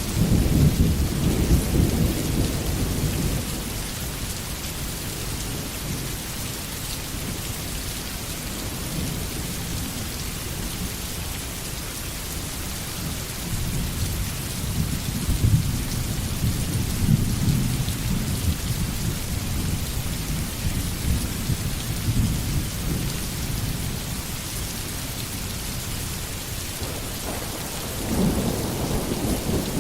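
Steady heavy rain hissing, with low rolls of thunder rumbling in and out: one at the start, another around the middle and a third near the end.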